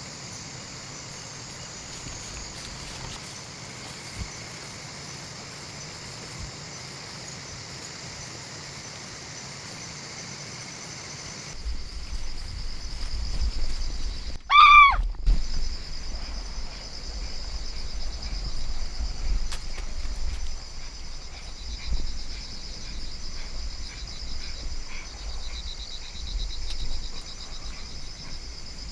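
Night insects, crickets among them, chirping steadily. A low rumble comes in about a third of the way through, and about halfway there is one short, loud, pitched call that bends in pitch.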